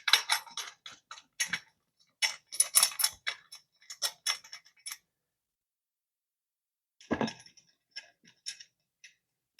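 Small steel bolts and washers clicking and clinking against the metal bed-frame parts as the bolts are hand-tightened: a quick run of light metallic ticks for about five seconds, a pause, then a knock and a few more clicks.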